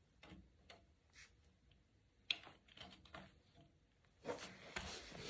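Near silence with faint scattered clicks and rustles of handling, a sharper click about two seconds in, and louder rustling near the end.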